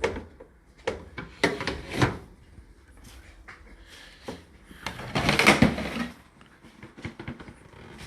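Indesit IDC8T3 condenser tumble dryer being handled after unloading: a few sharp knocks in the first two seconds, then a longer, louder clatter about five seconds in, like a door or drawer being worked.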